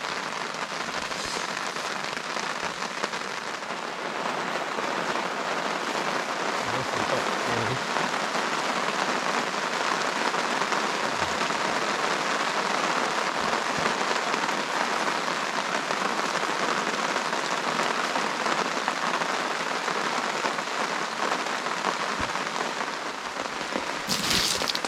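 Steady rain falling, an even hiss that holds throughout; shortly before the end a brief, louder burst of high hiss.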